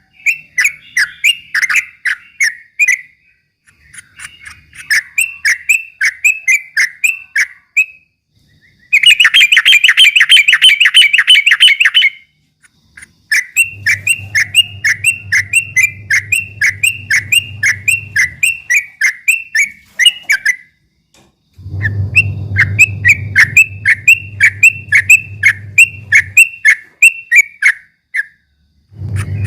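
Trucukan (yellow-vented bulbul) singing its fast rolling 'ropel' song: quick runs of bright whistled notes, about four or five a second, in phrases a few seconds long with short pauses between. One phrase about a third of the way in is denser and louder. A low hum sits under some of the later phrases.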